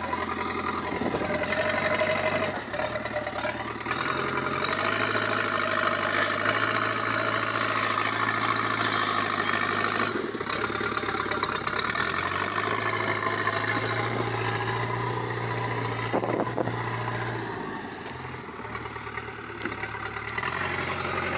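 Backhoe loader's diesel engine running, its note stepping up and down several times as it is worked.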